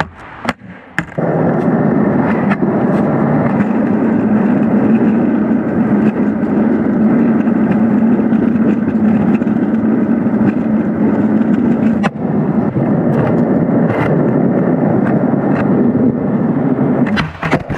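Skateboard wheels rolling over pavement in a steady loud rumble, starting about a second in after a couple of sharp clicks of the board being set down and pushed off. A few sharp clicks along the way come from cracks in the surface, and the rolling stops near the end.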